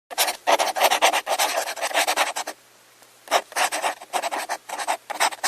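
Hand sanding or scraping: rapid back-and-forth rasping strokes, about four a second, in two runs with a pause of under a second between them.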